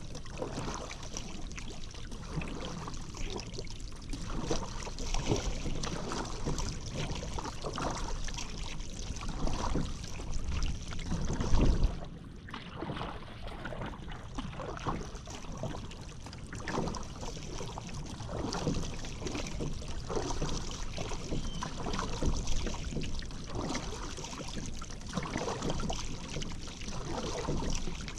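Paddle strokes dipping and splashing in river water alongside a paddled boat, repeating every second or two, with one louder splash or knock about twelve seconds in.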